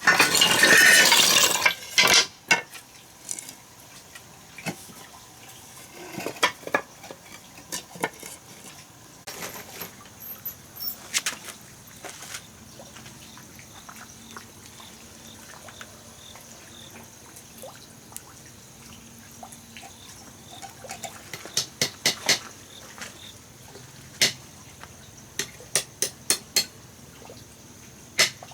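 Water splashing for about two seconds, then scattered sharp clicks and knocks, bunched more closely near the end.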